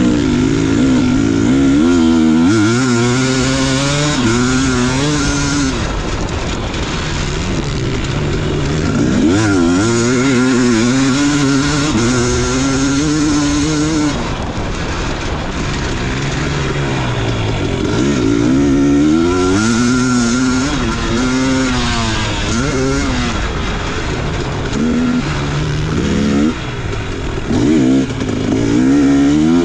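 Motocross dirt bike engine being ridden hard, revving up and dropping off again and again as the throttle is opened and closed, the pitch climbing in long rises and falling back between them.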